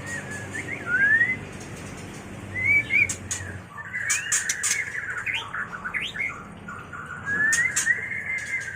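White-rumped shama (murai batu) giving its mating call: a rapid string of short rising whistles mixed with sharp clicks, with a couple of longer held whistles, the sound used to stimulate and lure other shamas.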